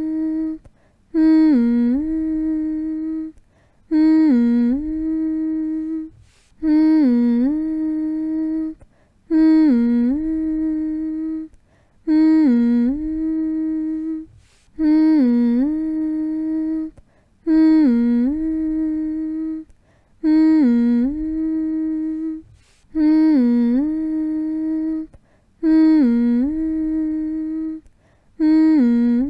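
A person humming "mm-hmm" over and over, each hum about two seconds long, dipping in pitch near the start and then held level, with a short break before the next. The hums repeat at an even pace, about one every two and a half seconds.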